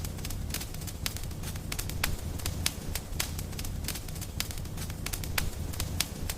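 Wood fire crackling in a fireplace: sharp, irregular snaps and pops, several a second, over a steady low rumble.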